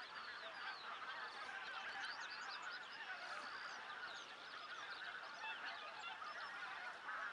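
A huge flock of wild geese calling, a dense, steady chorus of many overlapping honks.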